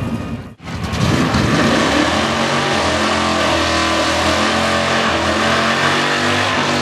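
Car engine revving hard and holding high revs during a burnout, over tyre noise. A brief dropout comes about half a second in.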